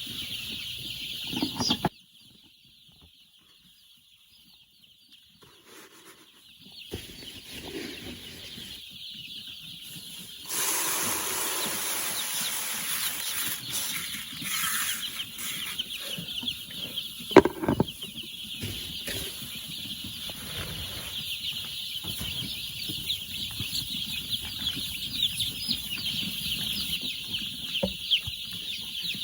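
A flock of chickens calling all at once in a dense, high, continuous peeping. The sound drops out almost entirely for a few seconds near the start, then returns. A single sharp knock comes about two-thirds of the way through.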